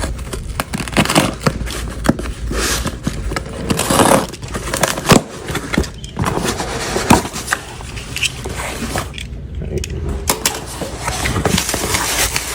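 A mail package being opened by hand: irregular scraping, tearing and crackling of cardboard, tape and packing material, with scattered sharp clicks and rustles.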